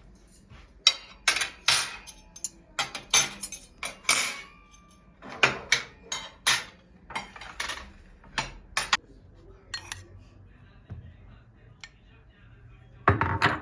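Kitchenware clinking: cutlery and dishes knocked together in a run of sharp clinks, a few ringing briefly. They come thick for most of the stretch, thin out after about nine seconds, then return in a loud cluster near the end.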